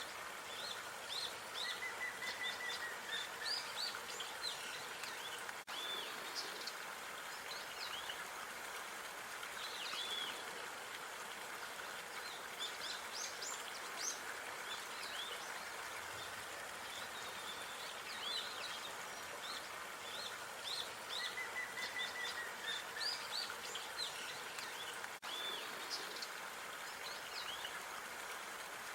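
Outdoor park ambience: small birds chirping with many short, high calls over a steady background hiss, with a short trilling call twice.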